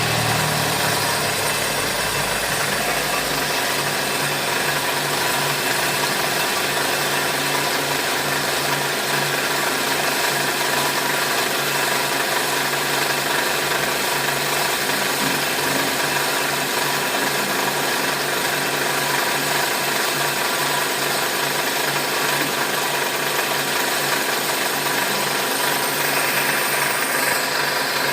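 Cylinder boring machine running steadily, its cutter boring out a motorcycle engine cylinder to oversize. The machine hum holds even throughout, with a change in the high hiss near the end.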